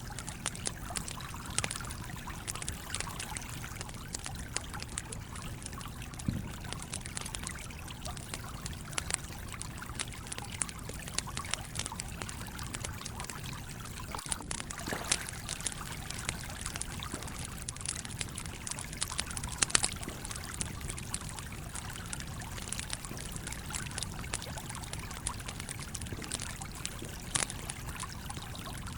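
Wood fire crackling with irregular sharp pops, a few louder ones about halfway through, over the steady trickle and flow of a stream.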